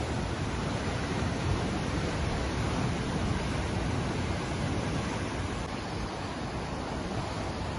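Ocean surf: a steady wash of waves with no distinct crashes or breaks.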